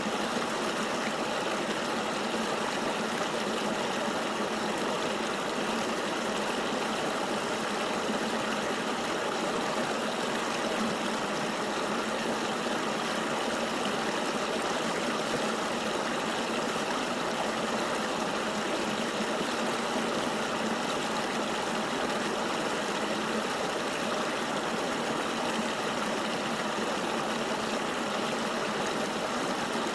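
Flowing river water making a steady, even rush with no breaks and little deep rumble.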